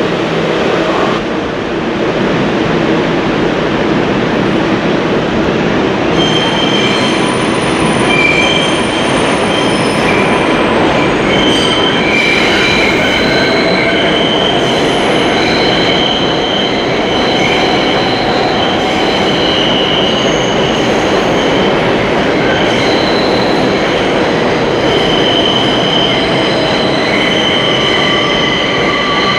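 A train running past, its steel wheels grinding on the rails over a steady rumble. From about six seconds in, high-pitched squeals come and go, several tones at once.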